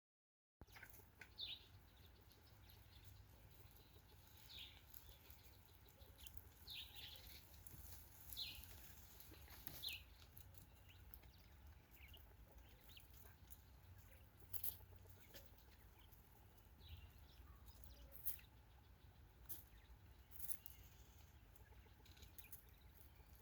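Coturnix quail giving faint, short chirping calls, scattered irregularly over a low steady hum, with a few sharp clicks among them.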